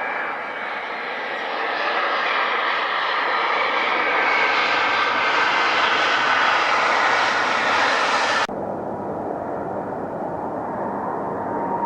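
Airplane engine noise growing louder as an aircraft passes, with a high whine in it. About eight and a half seconds in it cuts off abruptly and is replaced by quieter, steadier aircraft engine noise carrying a thin steady tone.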